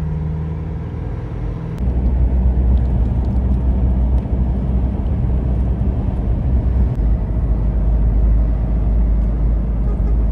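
GAZelle van running, heard from inside the cab: a steady engine hum, then about two seconds in a louder low rumble as the van drives on the road.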